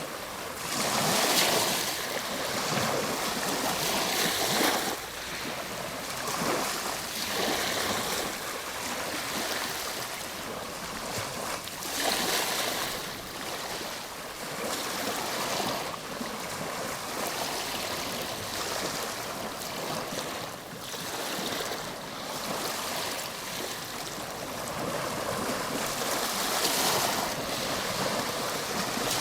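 Ocean waves breaking and washing on a shore, a steady rush of surf that swells with each wave, the strongest surges coming a few seconds apart.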